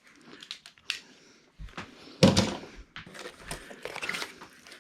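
Handling of a cardboard box and its packaging: scattered rustles and light clicks, with one louder thump a little over two seconds in.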